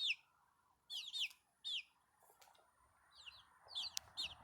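Young chickens peeping: short, high, falling chirps, a few about a second in, then a quicker run of them near the end.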